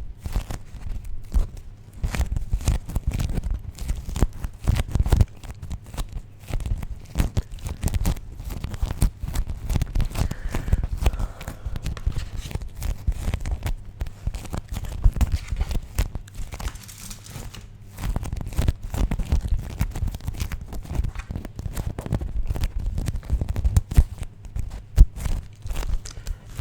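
Beeswax food wraps being crinkled and handled, the waxy sheets sticking and peeling apart with a dense, irregular crackle and a few short pauses.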